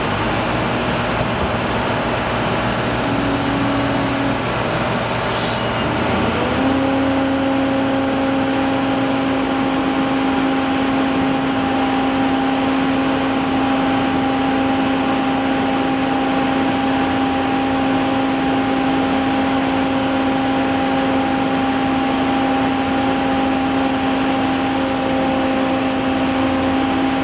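Machinery running with a steady noisy drone; about six seconds in, a motor rises in pitch and settles into a constant hum that holds.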